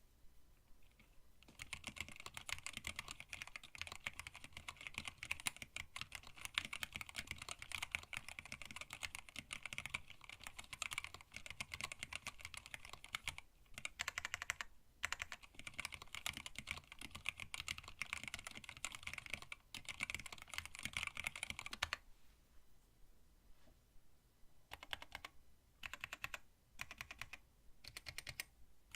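Fast typing on a hand-wired split mechanical keyboard with Tealios linear switches, blank PBT keycaps and an acrylic case: a dense run of key clacks that slows to scattered keystrokes about three-quarters of the way in.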